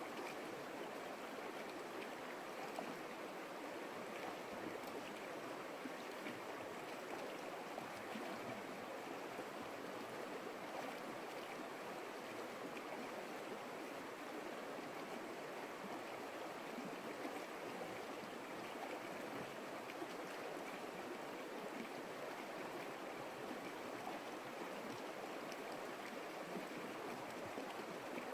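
Creek water flowing steadily over rocks, a continuous even rush with small splashes and no let-up.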